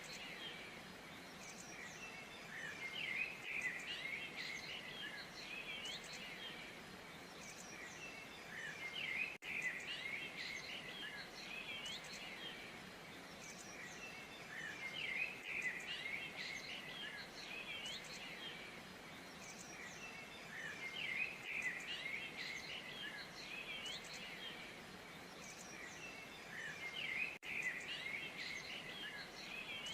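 A flock of small birds chirping and twittering together in a dense, continuous chatter of short high notes, with two brief dropouts in the sound.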